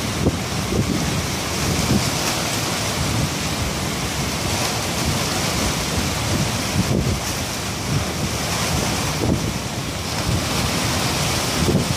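Hurricane wind gusting hard and buffeting the microphone, over a steady wash of heavy surf.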